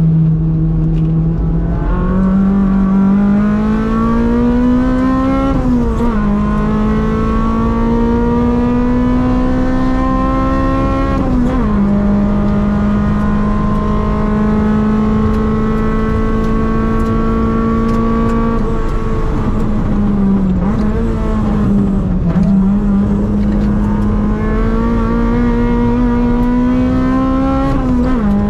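Naturally aspirated Toyota 4A-GE 20-valve four-cylinder in an AE101 Corolla, heard from inside the cabin at high revs under full throttle. The revs climb and drop sharply at upshifts about 6 and 11 seconds in, hold nearly level for a while, dip a couple of times around 20 seconds, then climb again to another upshift near the end.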